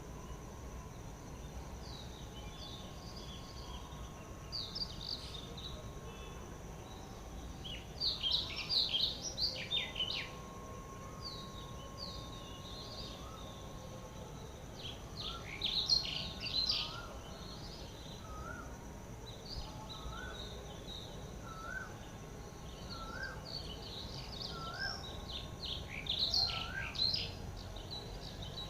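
Several wild birds chirping in quick bursts of high notes, loudest in three clusters. From about halfway in, one bird repeats a short rising note roughly once a second. A steady high-pitched hum and faint background noise run underneath.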